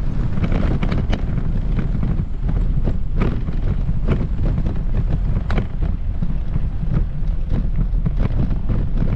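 Wind buffeting the microphone in a steady low rumble, with walking footsteps on a paved path at a regular pace of a little more than one step a second.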